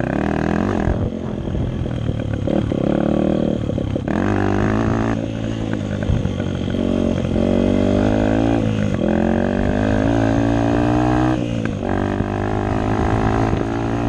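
Dirt bike engine running hard, its pitch climbing under throttle and then dropping back sharply about three times.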